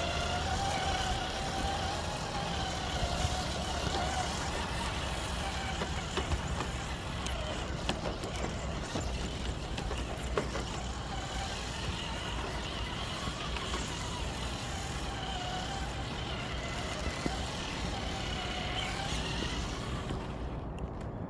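Traxxas TRX-4 RC crawler's electric motor and gearbox whining, the pitch rising and falling with throttle and dying away shortly before the end, with a few sharp clicks. Underneath is a steady low rumble of distant highway traffic.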